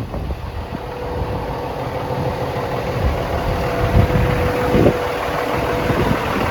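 Cummins ISX diesel engine of a 2008 Kenworth truck idling steadily, a low rumble with a thin steady whine over it and two brief thumps near the middle.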